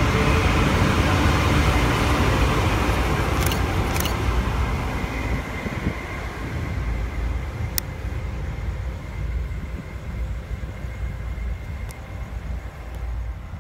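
Coal train hopper wagons rumbling past on the rails, loud at first, then fading as the end of the train passes and draws away. A few sharp clicks come through, and a faint steady high whine from about four seconds in.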